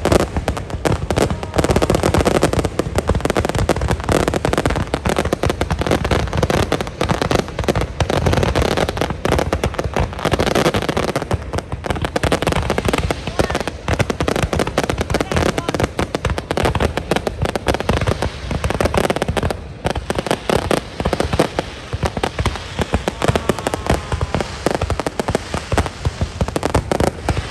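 Fireworks display going off in a dense, unbroken barrage of overlapping bangs and crackles.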